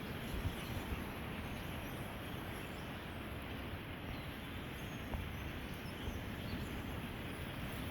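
Steady outdoor noise with wind rumbling on the microphone and faint, scattered bird chirps.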